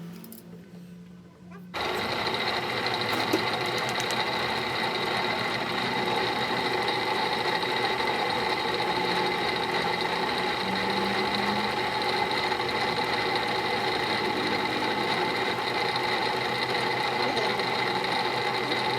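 A workshop machine starts up about two seconds in and runs steadily, a loud mechanical whir with a constant high whine over it.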